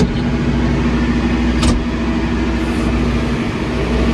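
Tractor engine running steadily, heard from inside the cab, with a sharp click right at the start and another about a second and a half in.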